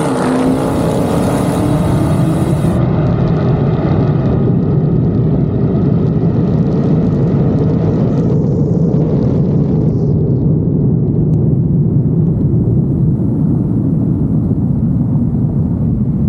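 Two Dodge Charger V8s, a Hellcat Redeye and a 5.7 Hemi R/T, running flat out down a drag strip after the launch. The engine pitch climbs at first, then the sound stays a steady low drone as the sharper high end fades away twice, at about 3 s and about 10 s.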